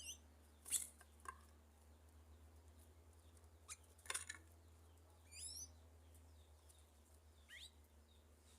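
Sanhaço tanagers giving a few thin, high call notes that slide in pitch, at a feeder, with several sharp taps in between. The sounds are faint.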